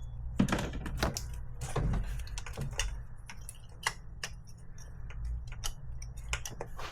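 Irregular small plastic clicks and taps of an electrical connector being handled and pushed at its mating plug on the car's wiring harness, not seating because it is held upside down. A steady low hum runs underneath.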